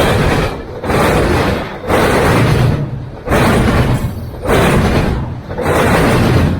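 Freight train cars rolling past close by: loud wheel and rail noise that dips briefly between each car, about once a second.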